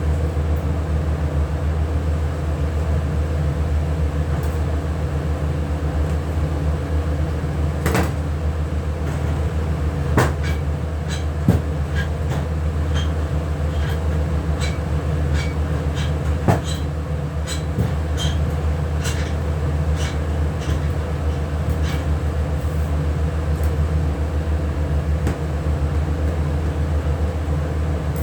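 A machine hums steadily and low, with scattered sharp clicks and light knocks over it from about a third of the way in.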